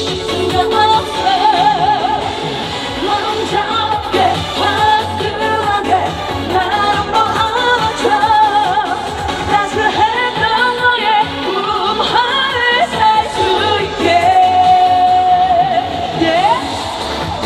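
A female singer sings a Korean trot song live over an amplified backing track with a steady beat, her voice wavering with vibrato. Near the end she holds one long note, then slides up in pitch.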